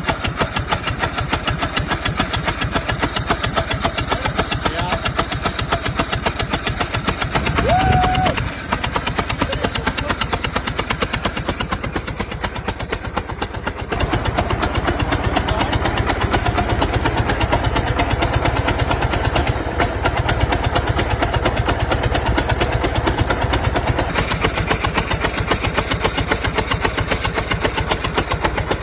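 Old farm tractor engine running unevenly, with a dense run of firing pulses. Its plug and firing-order problems mean it is running on only some of its cylinders. It gets louder about halfway through.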